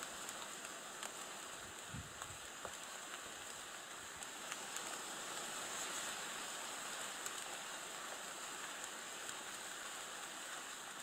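Light rain falling on the surface of a pond: a steady soft hiss with scattered faint ticks of drops.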